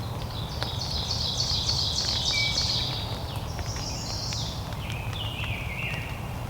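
Bird calling outdoors: a rapid series of high notes for about two and a half seconds, then a second series that steps down in pitch, over a steady low rumble of outdoor noise with scattered clicks.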